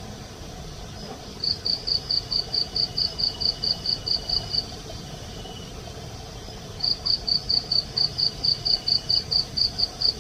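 A night insect, cricket-like, chirping in two long trains of rapid, even high-pitched pulses, about five a second, with a pause of about two seconds between them.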